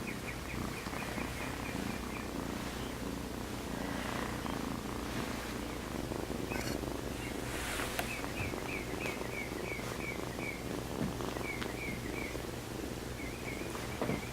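Kittens purring, a steady low rumble, with runs of short, quick high chirps and a couple of sharp clicks over it.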